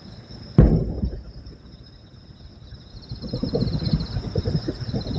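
Distant aerial fireworks: one sharp shell-burst boom about half a second in, then from about three seconds in a dense rattle of crackling pops that grows louder. Crickets chirp steadily behind.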